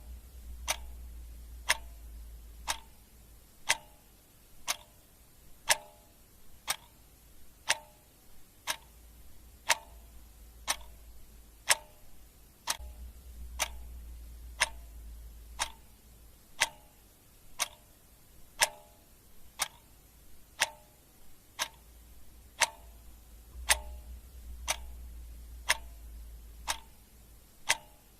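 Clock ticking steadily at about one tick a second, some ticks louder than others, over a faint low hum that comes and goes.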